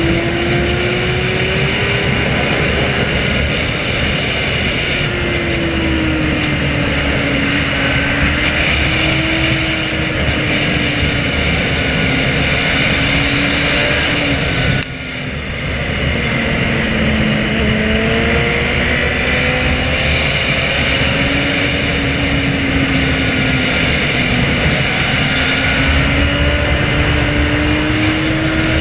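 Inline-four superbike engine running at speed, its pitch rising and falling gently with the throttle, over a steady rush of wind noise. About halfway through the sound briefly drops away, then comes back.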